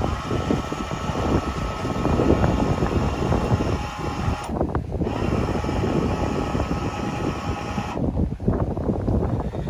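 A moving vehicle's steady road and wind noise, a dense low rumble with hiss above it. The hiss drops away briefly about halfway through and again near the end.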